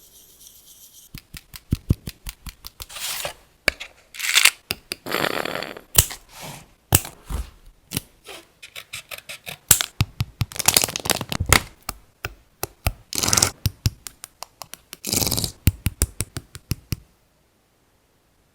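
Paper crafting: sheets of paper being handled on a desk, a run of sharp clicks and taps mixed with several short rustling swishes, stopping about a second and a half before the end.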